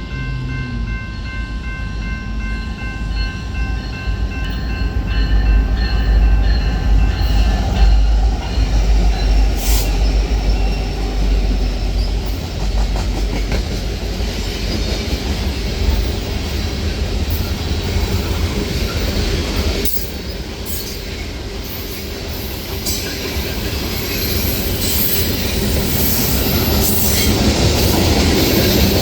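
Train passing on the tracks: a heavy, continuous low rumble with wheel-on-rail noise. Steady high-pitched wheel and rail noise builds toward the end.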